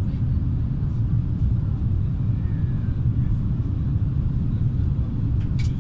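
Steady low rumble of a train running at speed, heard from inside the passenger car. There is a single brief sharp click near the end.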